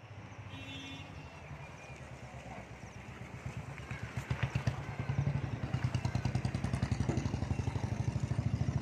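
A vehicle engine running steadily with a fast, even beat, getting louder about four to five seconds in.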